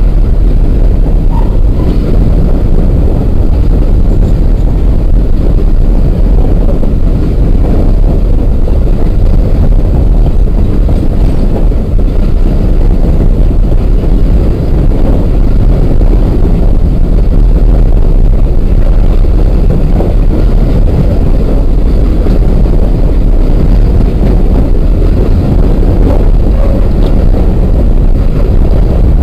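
Empty coal hopper cars of a freight train rolling past close by: a loud, steady rumble of steel wheels on rail.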